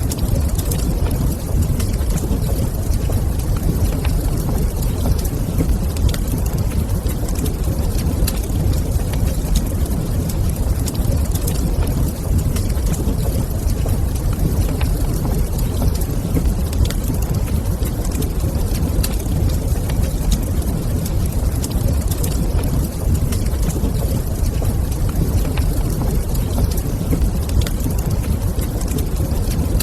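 Wood fire burning in a fireplace: a steady low rumble with faint, scattered crackles.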